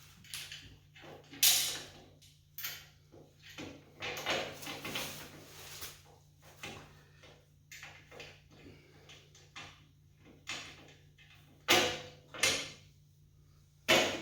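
Irregular metallic clicks, clanks and scrapes of a box wrench turning a bolt on a generator frame, with a few louder knocks about a second and a half in and near the end.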